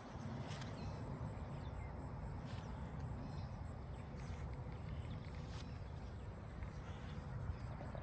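Open-air background: a steady low rumble with a few short, faint bird calls scattered through it.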